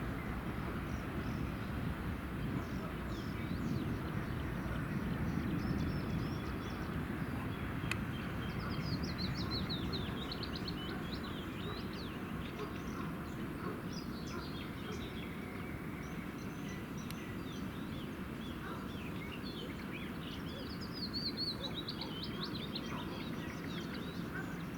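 Small birds singing, with repeated high chirping trills, over the low rumble of a freight train going away, which slowly fades.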